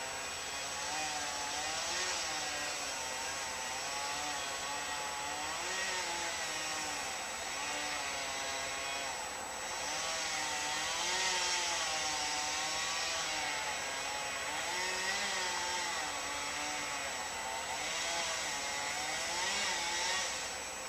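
An engine or motor running steadily, its pitch wavering up and down every second or two.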